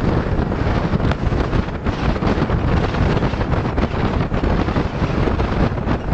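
Steady wind rush buffeting the microphone over the running noise of motor scooters on the move.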